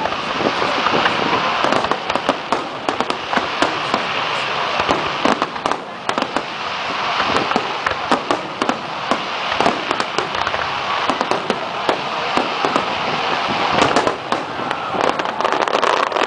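Fireworks display finale: a dense, continuous barrage of bangs and crackles from bursting shells, many reports close together.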